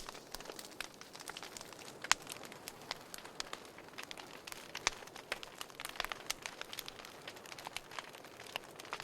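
Wood fire crackling in a fireplace: irregular sharp pops and snaps over a soft steady hiss, with a few louder pops about two seconds and five seconds in.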